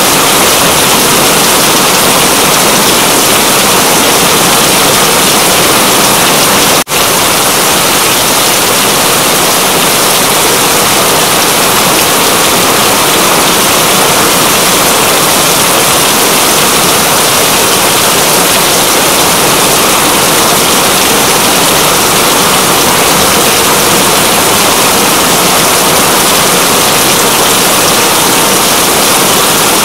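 Steady, heavy rain as a dense, even hiss, with a momentary dropout in the sound about seven seconds in.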